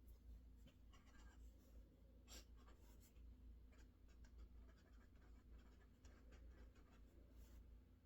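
Faint note-taking at a desk: scattered light scratches and taps over a steady low hum.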